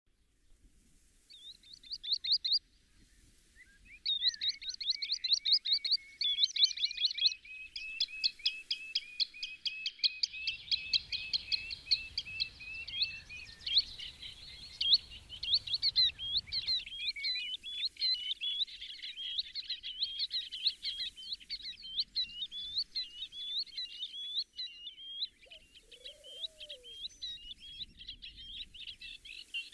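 Birds calling: rapid runs of short, high chirping notes, several birds or lines of notes at once, starting about a second in and going on almost without a break.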